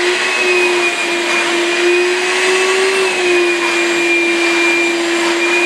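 Shop vac running steadily: a loud rushing hiss with a constant motor whine, whose pitch rises slightly and settles back about halfway through.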